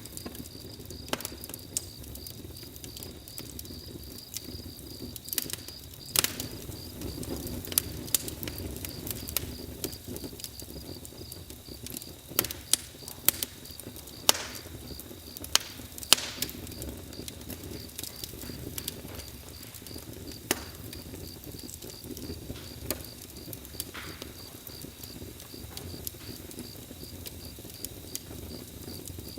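Campfire crackling: irregular sharp pops and snaps of burning wood over a low rumble of the flames, with a few louder pops. A steady, evenly pulsed high insect chirping goes on behind it.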